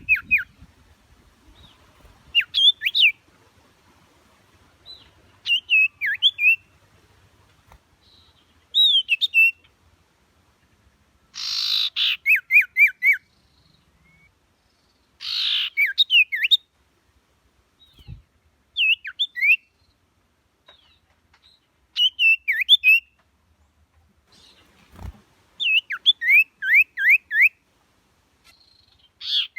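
Common iora (cipow) singing: short phrases of quick rising-and-falling whistled notes, repeated every few seconds, with two brief noisy rasps about halfway through.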